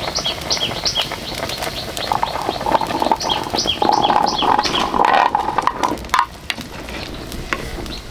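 A bird calling a quick series of short, high, falling notes, about three a second, which stops about five seconds in. A louder, lower, rough animal-like sound comes in over it from about two seconds in, with scattered clicks and rustles throughout.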